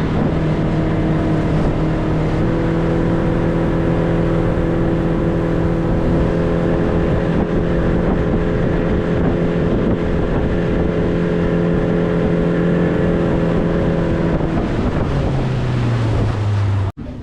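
Motorboat engine running at a steady speed, with wind on the microphone. Its pitch drops about fifteen seconds in as it slows. The sound cuts off suddenly near the end.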